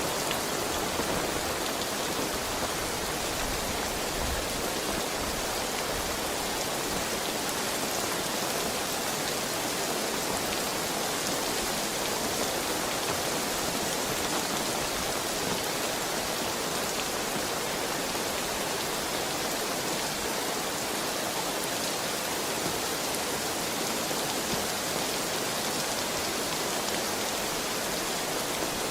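Heavy rain falling steadily: an even wash of rain noise with no thunder or other events.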